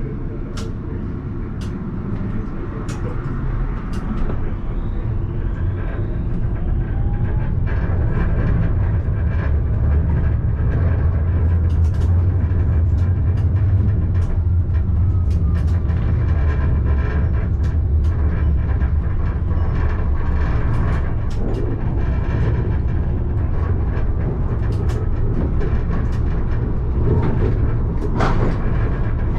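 Alstom Citadis tram running on its rails, heard from inside the driver's cab. The low rumble builds over the first several seconds as it picks up speed, with a faint rising motor whine, then holds steady. Scattered sharp clicks from the wheels and track come through the whole time.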